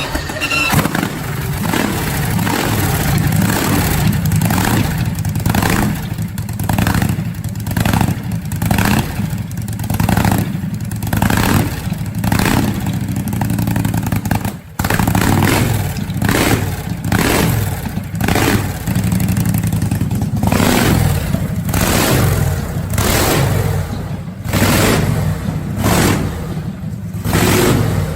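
A 5,000 cc V-twin motorcycle engine built from a Rolls-Royce Merlin aero engine, running and being revved again and again in sharp blips about once a second, with popping from the exhaust. The sound breaks off for an instant about fifteen seconds in, then the revving goes on.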